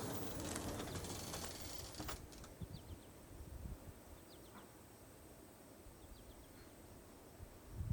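Wood fire burning in a fireplace, crackling with scattered small pops and ticks, with a stretch of hissing in the first two seconds.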